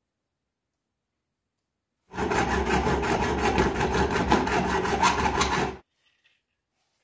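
A tool rasping against material in quick, even strokes for about three and a half seconds, starting about two seconds in and stopping abruptly.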